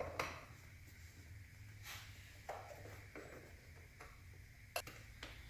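Faint, scattered small clicks and light rustling as pre-installed bolts and their washers are worked out of an office chair's frame, about four sharp ticks spread over a few seconds against a low hum.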